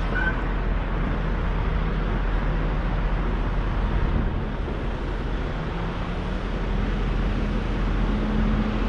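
Semi-truck driving down the road: steady engine and road noise, the engine's pitch rising slightly in the second half.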